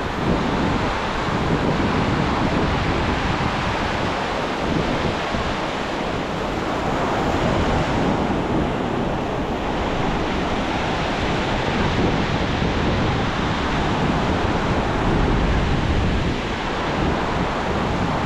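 Ocean surf washing onto a beach, a steady rushing with wind buffeting the microphone.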